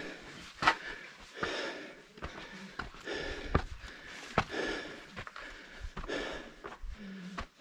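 A hiker breathing hard in repeated breaths, with footsteps and sharp scuffs and knocks scattered between them.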